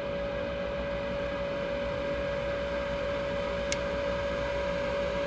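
Goodman gas furnace's draft inducer motor running with a steady whirring hum and one clear steady tone, as the furnace calls for heat. There is one light click about two-thirds of the way through.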